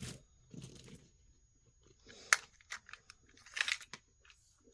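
Handling noises from a glass-bead necklace being picked over and measured: scattered rustling with a sharp click about two and a half seconds in.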